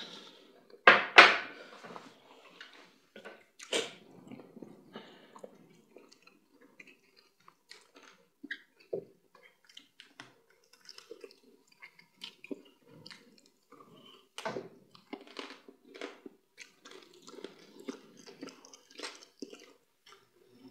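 Close-up mouth sounds of people eating fufu and soup with meat by hand: wet chewing, lip smacks and clicks at an irregular pace, the loudest about a second in and again near four seconds in.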